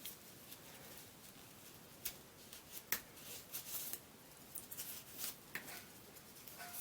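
Faint rustling and a few light clicks and taps from hands handling ribbon and craft materials, the sharpest clicks about two and three seconds in.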